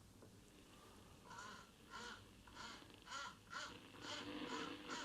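A bird cawing faintly, a run of about eight short harsh calls roughly two a second, starting about a second in and growing a little louder toward the end.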